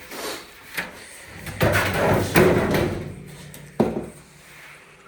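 Parts of a clothes dryer being handled during disassembly: metal clattering and scraping, a burst of rattling about two seconds in, then one sharp knock.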